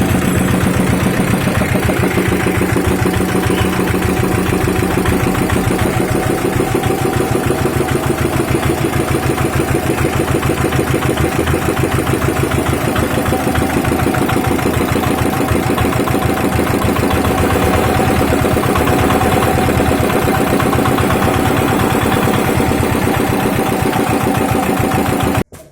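Dong Feng R175A single-cylinder diesel engine running steadily after being hand-cranked, its firing beats coming fast and even. The sound cuts off abruptly near the end.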